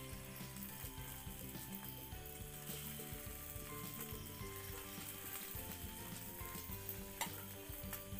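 Beaten egg frying in soyabean oil in a pan, with a steady sizzle as more egg batter is ladled over the omelette. One sharp click about seven seconds in.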